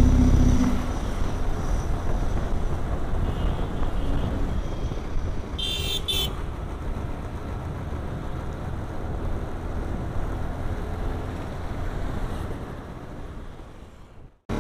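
Road traffic and wind noise from a moving vehicle, a steady rumble, with a short double horn beep about six seconds in. The sound fades out near the end.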